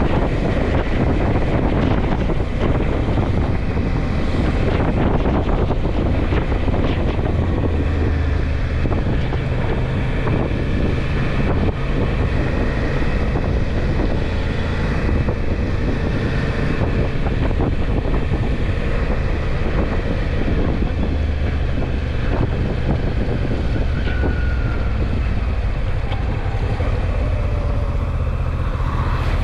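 Suzuki V-Strom motorcycle riding at steady speed: the engine runs under a heavy rush of wind on the microphone.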